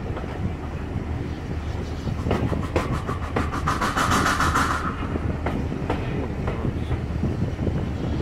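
Railway carriage running along the track, heard from an open carriage window: a steady running rumble with wheels clicking over the rail joints. About halfway through comes a quick, even run of clicks with a louder hiss, which then dies away.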